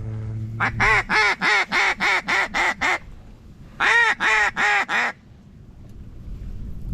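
Mallard duck call blown in a loud, fast series of about nine quacks, then a shorter run of four quacks, calling to passing mallards. A low steady hum fades out about a second in.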